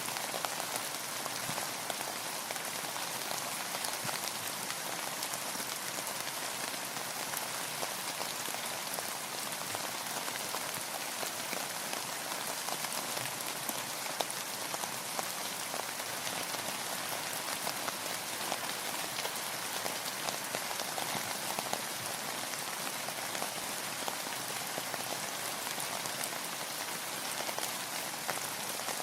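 Steady rain falling on a surface, an even hiss of many drops with fine individual drop patter throughout.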